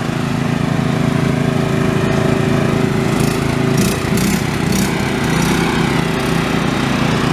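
Riding lawn mower engine running hard at high throttle: a steady, loud engine drone whose low note shifts about four seconds in.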